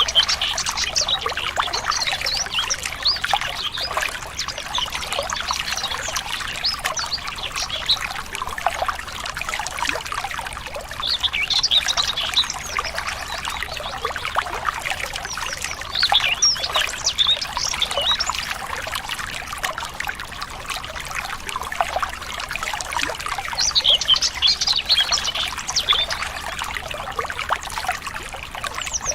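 Water trickling steadily over stones in a small stream, with birds chirping in short bouts every few seconds over it.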